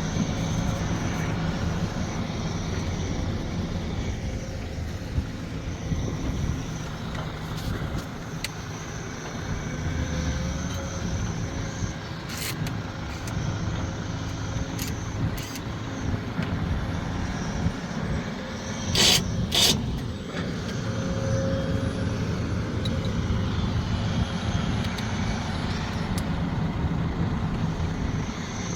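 Sumitomo SH370LHD-6 excavator's diesel engine running steadily as the machine works. About two-thirds of the way through come two short, sharp sounds close together, with a few fainter clicks before them.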